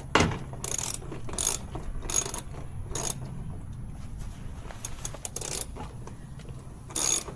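Hand tools clicking and clinking against metal during an oil change: a string of separate sharp metallic clicks, irregularly spaced, over a low steady hum.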